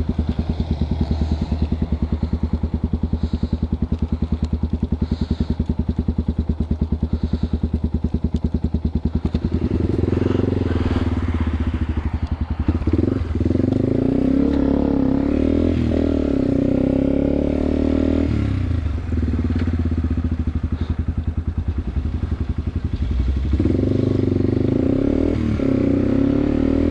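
Yamaha TW200's single-cylinder four-stroke engine running with an even pulse at low revs, then revving up from about ten seconds in, the engine note rising and dipping several times as it shifts gears.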